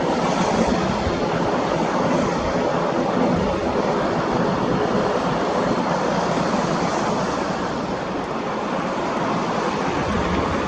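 Aircraft engine noise heard across the airfield: a steady, even rushing without distinct events.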